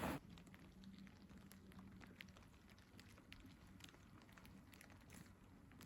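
Near silence: faint outdoor quiet with scattered soft ticks.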